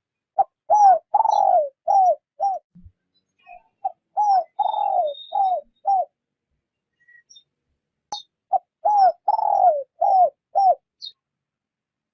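A spotted dove cooing, used as a decoy bird: three phrases of four or five low coo notes, each note bending down in pitch, with pauses between the phrases. Faint high chirps of small birds come in between.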